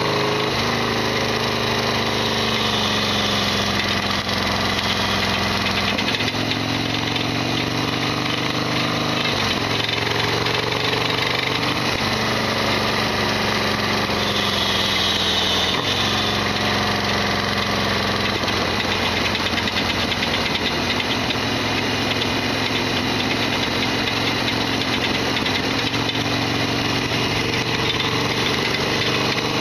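Harley-Davidson Sportster XL1200R's air-cooled V-twin running under way, its note dropping abruptly three times, about a third, a half and halfway through. The engine has the loud rattling that the owner calls noisy.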